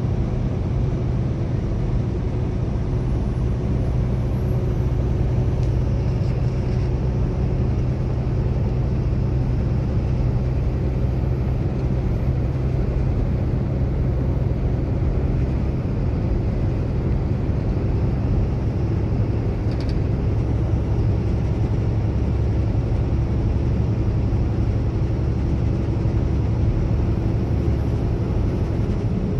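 Truck driving at road speed: a steady low rumble of engine and road noise.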